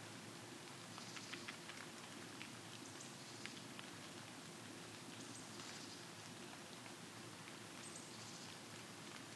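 Faint, short, high-pitched calls of a small songbird, four of them about every two and a half seconds, with scattered faint ticks and a steady low hum underneath.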